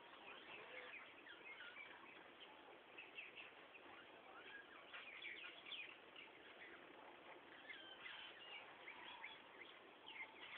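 Many birds chirping faintly and continuously, short overlapping chirps with no pauses.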